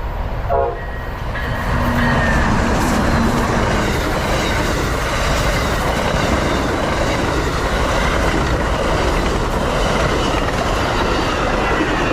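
Amtrak Floridian passenger train running past close by: a loud, steady rush of wheels on rail that builds about a second and a half in and holds.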